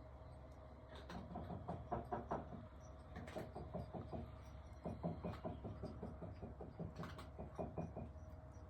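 Wood fire in a wood-burning stove crackling, with irregular clusters of small snaps and pops, over a faint steady hum.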